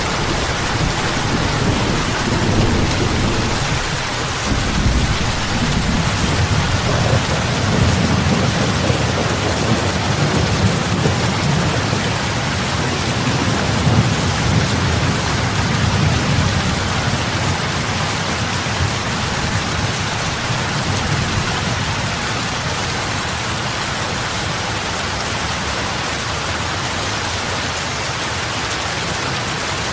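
Steady heavy rain falling on open water, an even hiss of drops and splashes. A low rumble runs under it for roughly the first half and eases off after about sixteen seconds.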